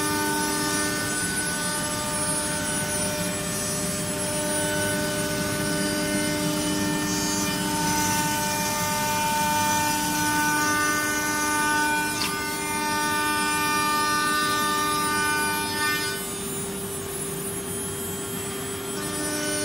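CNC woodworking router running: a steady machine drone with several constant whine tones. Some of the tones drop out about sixteen seconds in and come back near the end.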